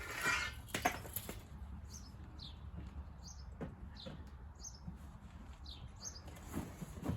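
A bird chirping again and again, short high chirps that fall in pitch, about one a second. A few knocks and rustles sound in the first second or so.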